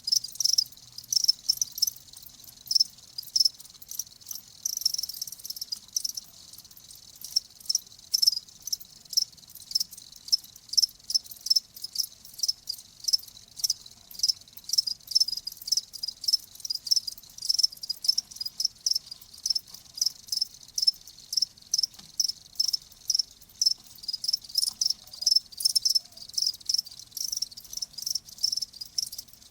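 Crickets chirping: short, high-pitched chirps repeated a couple of times a second, unevenly spaced.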